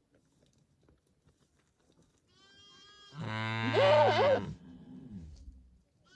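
A goat bleating once: a long call that swells in about two seconds in, wavers in pitch at its loudest, then trails off.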